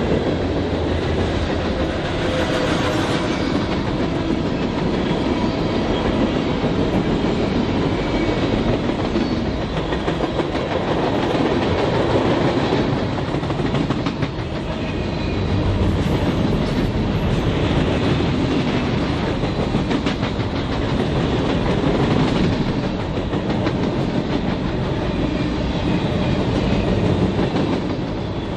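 Long freight train's cars rolling steadily past, steel wheels clicking over the rail joints with a continuous rumble.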